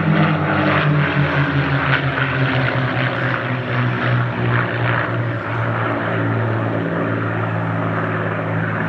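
North American P-51D Mustang's V-12 piston engine droning as the fighter flies by after breaking formation into the landing circuit. The pitch eases down over the first half, then holds steady.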